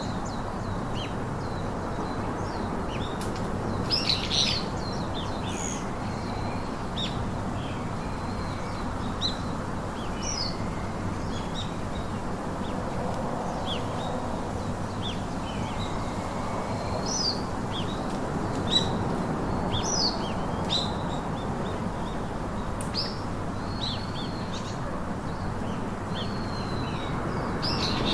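Several wild birds chirping and whistling in short, scattered calls, some slurring down in pitch, over a steady low background hiss.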